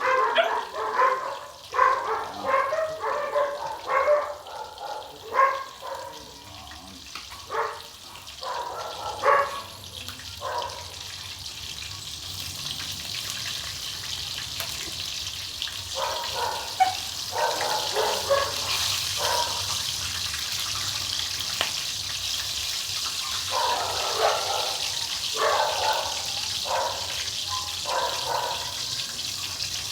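A dog barking in repeated short bursts, in three bouts with pauses between, over a steady hiss that grows louder from about twelve seconds in.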